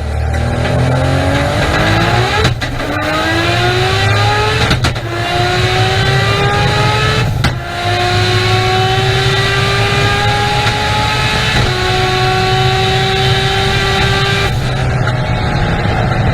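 VW Golf 4 R32's 3.2-litre VR6 engine accelerating hard through the gears. The exhaust note climbs steadily, then drops sharply at each of four upshifts, and each gear lasts longer than the one before.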